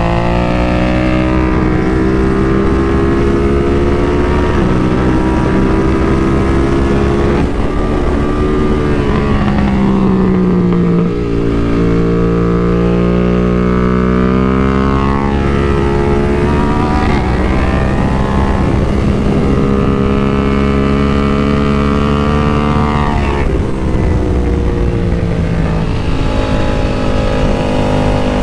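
The BMW F 900 R Cup racer's parallel-twin engine at racing revs, heard from onboard the bike. Its note falls as the bike slows about ten seconds in, then climbs steadily as it pulls for some twelve seconds. It drops sharply about 23 seconds in and picks up again.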